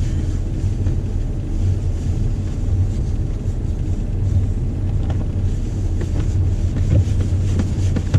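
Jeep Wrangler on a snowy road: a steady low rumble of engine and tyres, with a few faint ticks a few seconds in.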